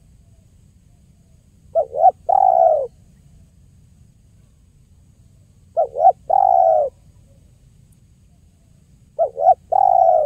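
Spotted dove (tekukur) cooing: three matching phrases about four seconds apart. Each phrase is two short notes followed by one longer coo, and the last phrase is cut off at the end.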